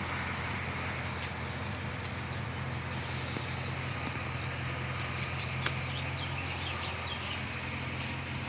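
A steady low engine hum, as of a vehicle idling, over outdoor background noise, with a few faint small clicks.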